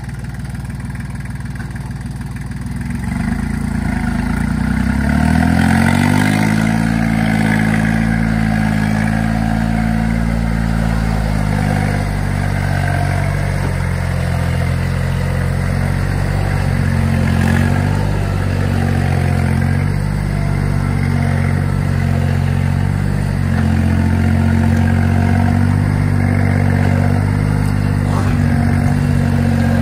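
Iseki tractor's diesel engine revving up about three seconds in, then running hard at a steady high speed as the tractor works over rough ground.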